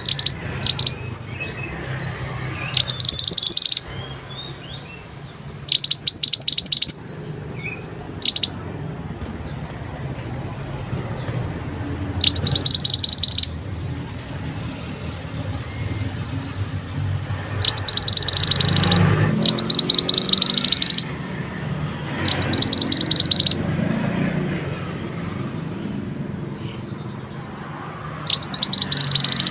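Mantenan (pied bushchat) singing: repeated short bursts of very fast, high-pitched rolling trills, each about a second long and a few seconds apart, over a faint low hum.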